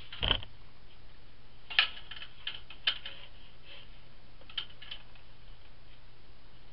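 A dull thump right at the start, then a handful of light, sharp clicks and taps at uneven intervals over a faint steady low hum.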